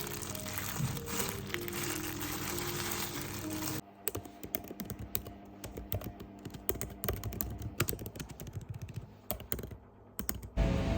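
Typing on a keyboard: quick, irregular key clicks that start about four seconds in and go on for several seconds, after a few seconds of steady background noise.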